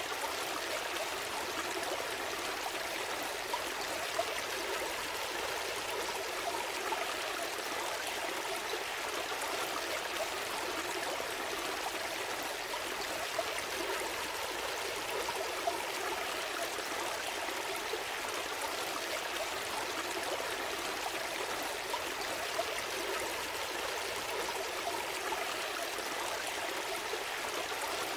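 Gentle stream flowing steadily: an even, continuous rush of water.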